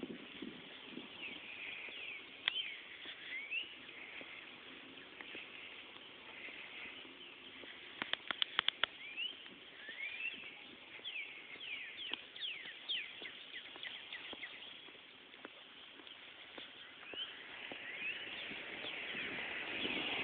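Birds chirping, many short calls throughout, with a quick run of sharp clicks about eight seconds in.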